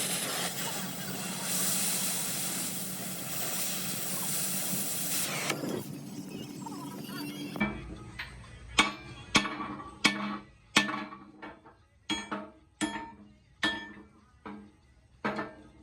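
A steady, loud mechanical din for the first five seconds or so. Then, near the middle, a run of sharp metallic strikes, each ringing briefly, about one or two a second, like a hammer beating metal in a workshop.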